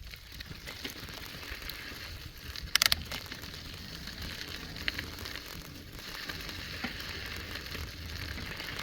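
Bicycle riding along: a steady crackling hiss of tyres rolling over a rough surface, with a low rumble of wind on the microphone. About three seconds in comes a brief, sharp rattle, the loudest sound, and a smaller click follows a couple of seconds later.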